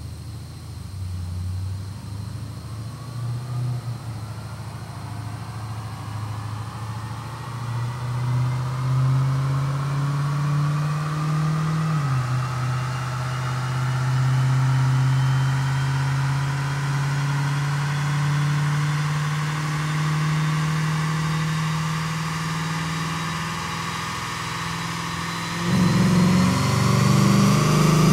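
2008 Dodge Challenger SRT8's 6.1-litre Hemi V8, breathing through a MagnaFlow cat-back exhaust, running under load on a chassis dyno, with a thin whine that climbs steadily as speed builds. The engine note drops in pitch about twelve seconds in, a gear change, and gets suddenly louder near the end.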